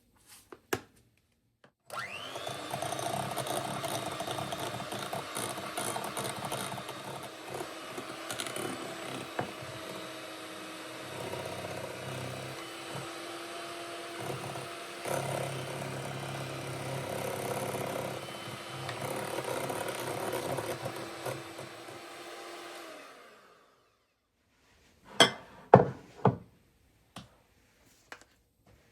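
Electric kitchen blender running for about twenty seconds: it starts suddenly, runs with small shifts in load, then winds down in pitch when switched off. It is followed by a few sharp knocks.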